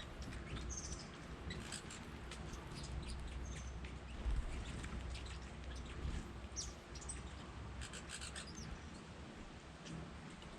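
Small songbirds giving short, scattered high chirps and thin whistled call notes, over a faint low rumble of background noise.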